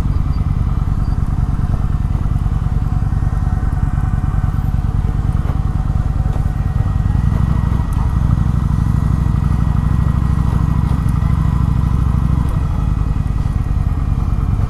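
Motorcycle engine running on the move, a steady loud run of exhaust pulses that grows heavier for several seconds in the middle before easing back.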